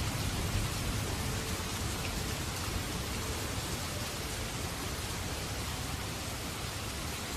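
Steady heavy rain falling, an even, unbroken hiss with a low rumble beneath it.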